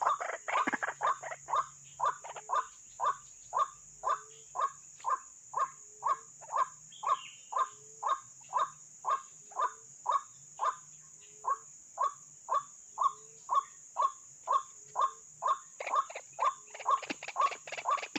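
White-breasted waterhen calling: a long, even series of short, monotonous croaking notes at about two to three a second, busier and louder at the start and again near the end.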